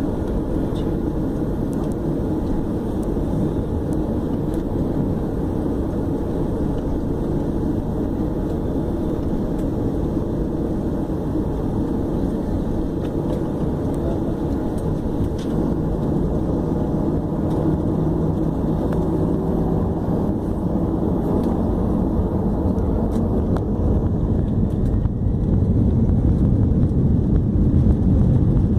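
Airbus A321 airliner's jet engines running: a steady rumble with a hum that rises slowly in pitch over the second half, growing louder toward the end as the engines spool up for takeoff.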